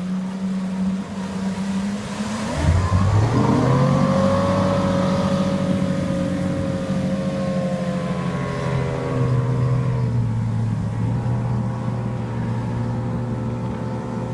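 Deck boat's engine running at low speed, then about two and a half seconds in revving up with a rising pitch. It settles into a steady higher-speed run, as when the boat is throttled up and underway.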